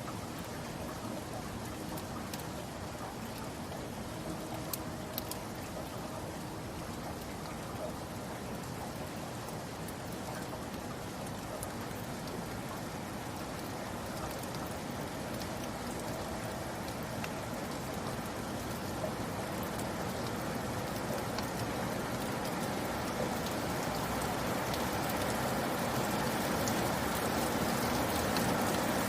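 Steady rain falling, an even hiss with scattered individual drop ticks. It slowly grows louder toward the end.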